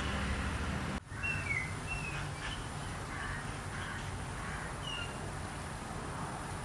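Outdoor ambience with a steady background hiss, broken by a brief dropout about a second in, after which a bird gives several short, high chirps.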